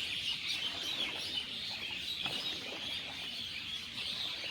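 Chorus of a large flock of birds gathering at their evening roost: a dense, continuous chatter of many overlapping high chirps and calls.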